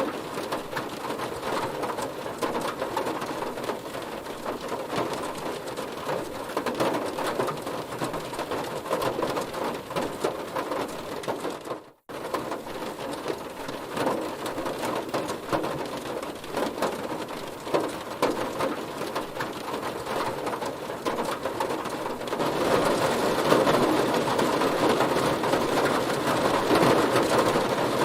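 Heavy rain falling on a car, a dense hiss full of countless small drop hits. It cuts out for a split second about twelve seconds in, and grows louder for the last five seconds or so.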